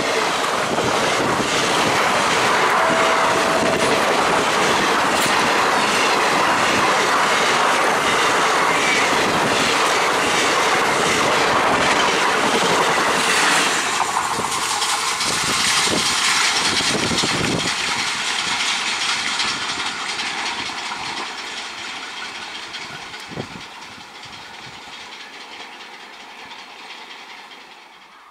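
Passenger coaches of an express train rolling past at speed, wheels clattering rapidly over the rail joints. About fourteen seconds in, the last coach passes and the clatter fades steadily as the train draws away.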